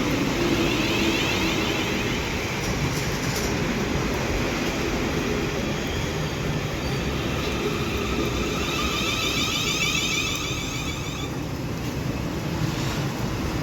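Electric commuter train running, a steady rumble and rail noise throughout.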